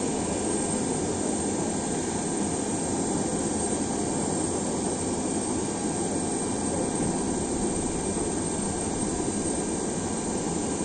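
Jet aircraft engine running steadily: an even rushing noise with a few faint steady tones.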